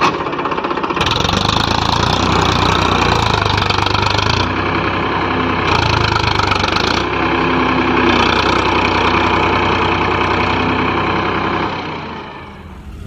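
Tractor diesel engine running steadily under load, getting louder about a second in and easing off near the end.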